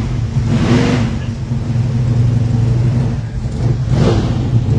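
1970 Chevelle SS's 454 big-block V8 running with a steady low idle, revved briefly about a second in and again near the end, sounding healthy.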